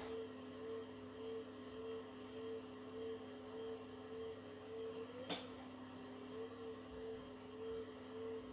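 Beko WTK104121W washing machine in its spin cycle, the drum spinning at a steady speed: a steady motor whine with a higher tone that pulses about twice a second. A single sharp click sounds about five seconds in.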